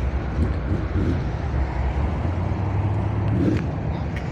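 Car engine running at low revs close by, a steady low rumble.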